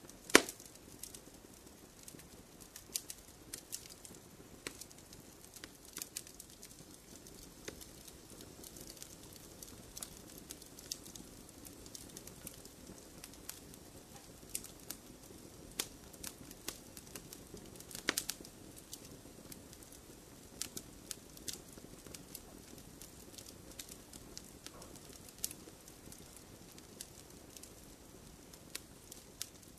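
Wood fire crackling in a fireplace: irregular sharp pops and snaps over a soft steady rush of burning. A loud pop comes just after the start, and another strong cluster of pops comes about two-thirds of the way through.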